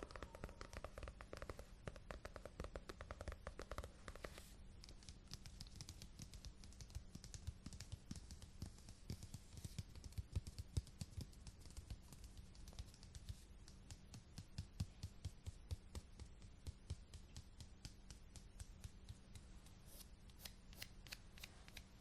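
Faint, rapid crackling and clicking from an object being handled close to the microphone. The clicks are dense for the first few seconds, then thin out into scattered ticks.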